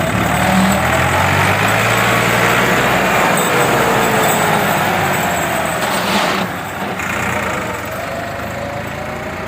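Tractor engine running hard, its pitch wavering up and down, with a brief hiss about six seconds in, after which it runs a little quieter.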